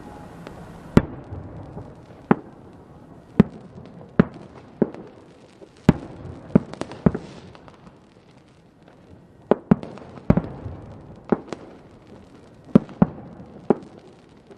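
Fireworks going off: about fifteen sharp bangs at irregular intervals over a low rumble, with a brief hiss about seven seconds in and a short lull just after.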